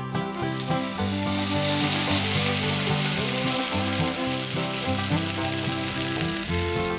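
Food sizzling as it fries in a hot pan, a steady hiss that starts just after the beginning and cuts off at the end, over background music.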